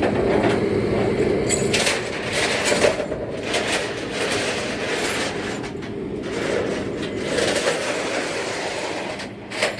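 Vehicle noise: a steady mechanical rattle and rumble, with several swells of louder hiss and a short knock near the end.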